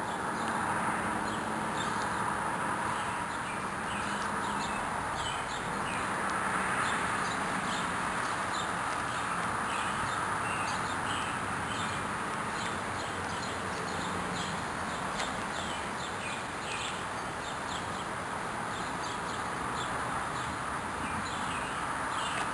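Small birds chirping, many short high calls in quick succession, over a steady background hiss.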